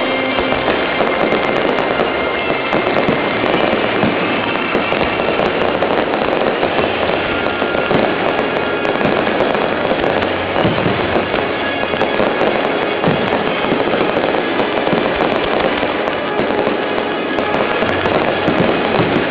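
Fireworks display: a continuous dense crackling and popping of bursting fireworks, with music playing along throughout.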